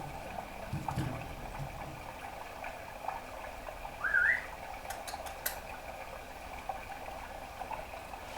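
Pet budgerigar making a few soft clicks and one short rising, wavering chirp about four seconds in.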